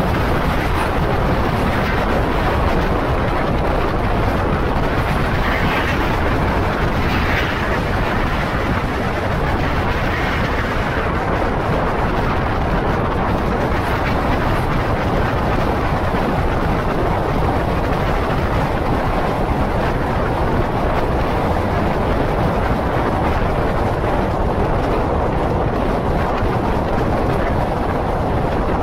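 Diesel passenger train of the State Railway of Thailand running at speed, heard from a carriage window: a steady, loud rush of wheels on rail and the engine working as the train climbs the ramp onto the elevated track.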